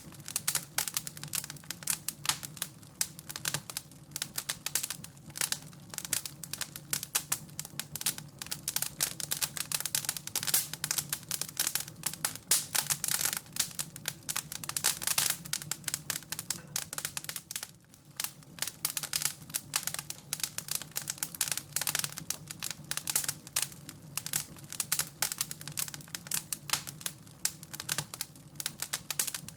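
Wood fire crackling in a fireplace: a dense, irregular run of small snaps and pops over a steady low hum.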